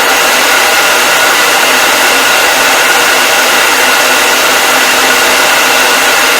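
Hair dryer running steadily: a loud, even blowing hiss with a constant high motor whine over it.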